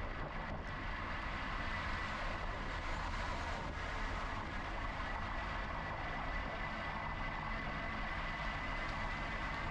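Steady riding noise from an electric bike in motion: wind rumbling on the camera microphone and tyres rolling on pavement, with a thin steady high whine over it.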